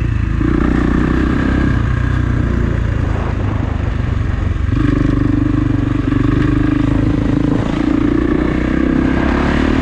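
Kawasaki KX450 dirt bike's single-cylinder four-stroke engine running. It holds higher revs from about half a second to nearly two seconds in, eases back, then holds higher revs again from about five seconds in.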